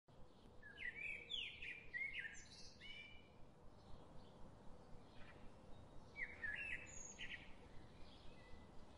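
Faint birdsong: two bouts of quick chirping phrases with short pitch glides, about a second in and again after six seconds, over a light hiss.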